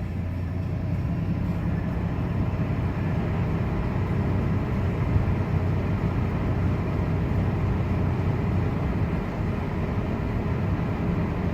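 Chevrolet Trailblazer's 4.2-litre Vortec 4200 inline-six idling steadily with the A/C switched on, stumbling under the compressor load. The stumble is the A/C-on stalling problem that is commonly put down to a dirty throttle body.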